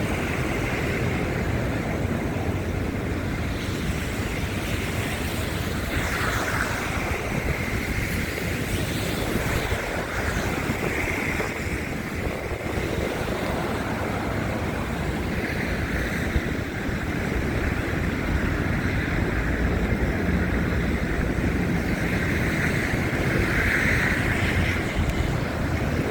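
Wind buffeting a handheld phone's microphone in a snowstorm: a continuous rushing roar with heavy rumble, swelling and easing in gusts.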